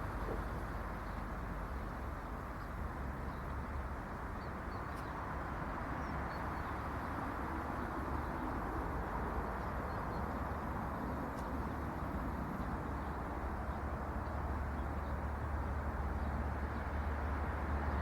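Steady low rumble and hiss of wind and road noise on the microphone while cycling, getting slightly louder toward the end. A few faint bird chirps sound over it.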